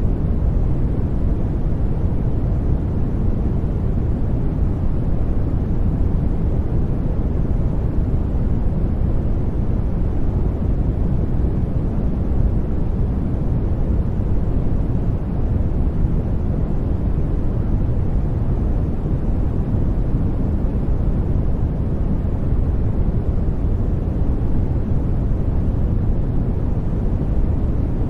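Steady, unchanging sleep-aid noise track: an even rushing hiss weighted toward the low end, so it sounds deep and rumbly rather than bright.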